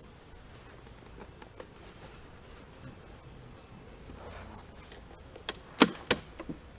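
A steady high insect trill, like crickets, runs throughout. Near the end come a few sharp knocks and clicks, most likely the hive's feeder cover being handled.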